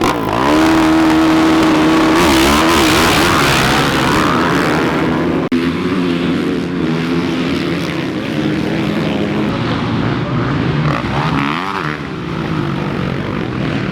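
Several small single-cylinder pit bike engines revving and running together. The pitch holds high for the first couple of seconds, then rises and falls as the bikes go on and off the throttle.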